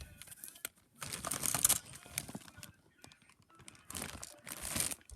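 Handling noise: crinkling and rustling with small clicks, in two bursts, one about a second in and one near the end.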